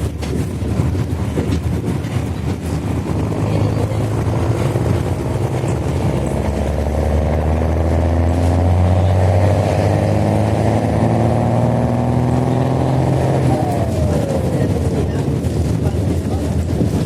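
Mercedes-Benz OH-1420/51 bus engine with an open, unmuffled exhaust, pulling under acceleration. Its revs climb steadily for about ten seconds, then fall sharply near the end with a gear change.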